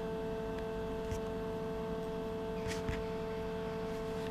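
A steady machine hum made of several fixed tones, with a few faint light clicks about a second in and near three seconds in.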